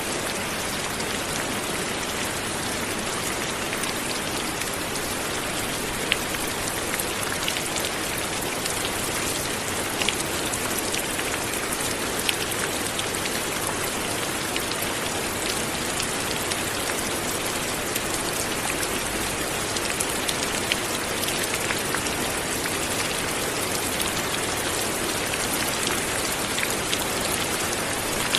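Light, steady rain falling, with individual drops ticking now and then over an even hiss.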